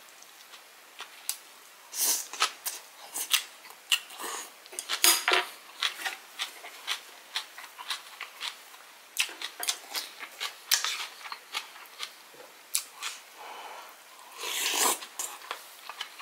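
Close-up eating sounds: a man chewing a mouthful of rice and fresh cabbage kimchi, with many short, irregular mouth clicks and smacks. Light clinks of chopsticks against the dishes, and near the end a longer scrape as a wooden spoon digs into a bowl of rice.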